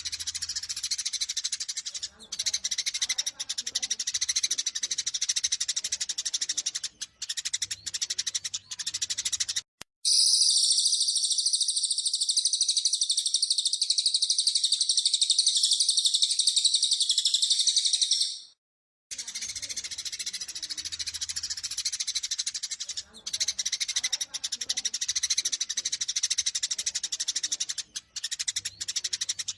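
Eurasian tree sparrows chirping and chattering rapidly in a dense, agitated stream, the fighting calls used to provoke kept sparrows into singing. About a third of the way in, after a short break, a louder continuous high trill runs for several seconds, then after another break the sparrow chattering returns.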